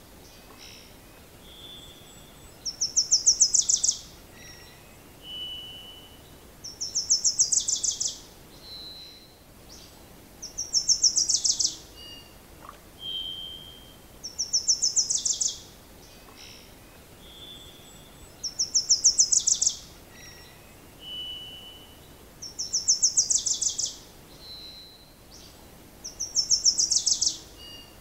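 Songbird singing a high, fast trill of evenly spaced notes, repeated about every four seconds, seven times. Short single whistled notes from other birds fall in between.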